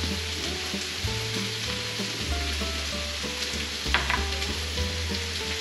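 Chopped shallots, carrots, mushrooms and garlic sizzling in olive oil in a sauté pan on medium-high heat. A short knock comes about four seconds in as a small cup is set down on a cutting board.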